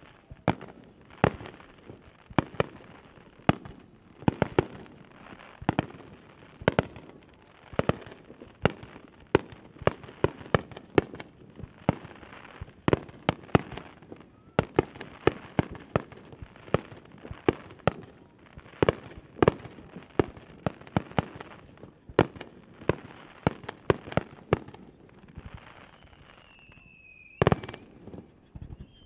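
Aerial fireworks shells bursting in a rapid, continuous string of sharp bangs, often two or three a second, with crackling between them. Near the end a high whistle falls in pitch just before another bang.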